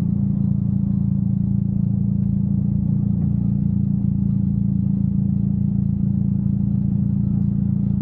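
Car engine running at a constant speed, a low, even drone that holds the same pitch throughout.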